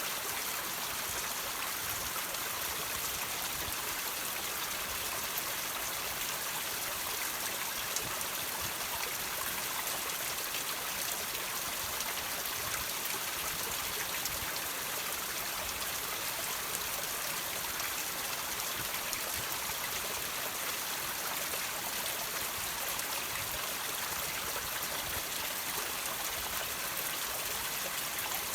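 Water trickling and dripping off rocks, a steady stream-like hiss with many small drips throughout.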